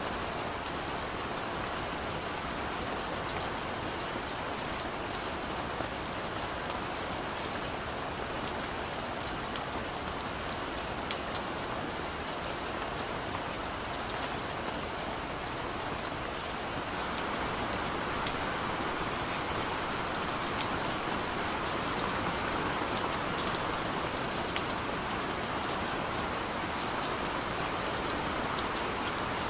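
Steady rain falling, an even hiss with scattered sharp drop ticks, growing slightly heavier a little past halfway.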